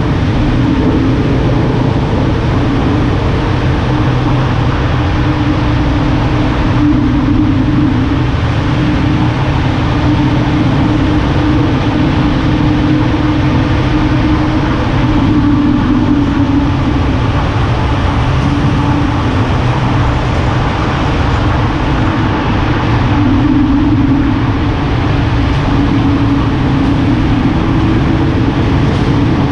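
Car driving at a steady speed: a constant engine drone that wavers only slightly, mixed with road and wind noise.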